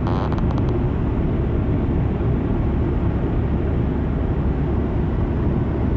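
Steady low rumble of road and engine noise inside a car's cabin while driving at highway speed, with a few faint ticks at the very start.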